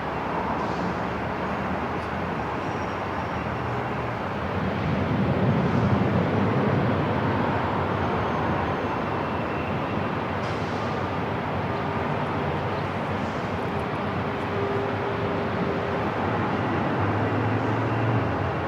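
Airport terminal ambience: a steady wash of noise with a low hum and faint passing tones, swelling for a couple of seconds about five seconds in.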